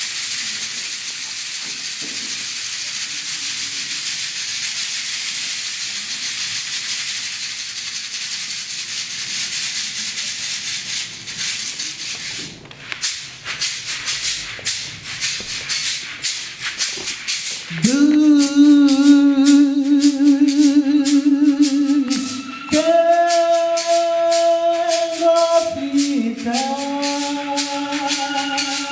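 Live percussion music: a steady shaken rattle for the first twelve seconds or so, turning into a fast rhythmic pattern of jingling strokes. About eighteen seconds in, a voice joins, singing long wordless held notes with vibrato over the percussion.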